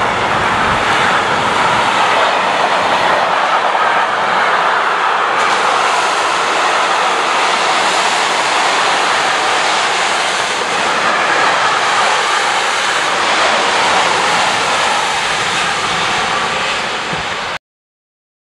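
A train passing close by, a loud, steady rolling noise of wheels on the rails that cuts off suddenly near the end.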